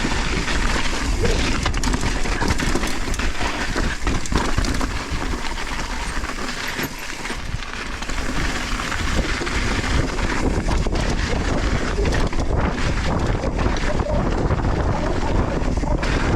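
Wind buffeting the action-camera microphone while a mountain bike descends a loose volcanic-soil trail, with tyres crunching and the bike rattling over the ground. The noise eases for a couple of seconds about halfway through.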